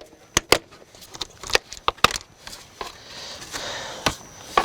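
Plastic interior trim molding being pulled off a car body: a series of sharp clicks and snaps as its retaining clips let go, with plastic rubbing and rustling in between. The plastic is cold and stiff, so the clips are slow to pop.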